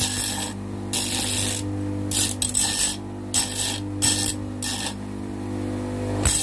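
Homemade bench grinder running with a steady motor hum while a metal angle section is pressed against the wheel in about six short grinding bursts over the first five seconds; after that only the motor runs.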